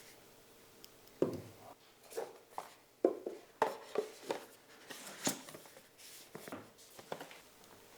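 Objects being handled and set down on a hard surface: a string of light knocks, taps and rubs, about ten in all, the loudest a little after a second and around three seconds in.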